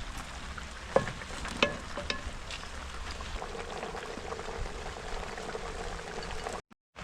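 Steady hiss of food frying in a pot with rain falling around it, broken by a few sharp knocks about one and two seconds in. The sound cuts out briefly near the end.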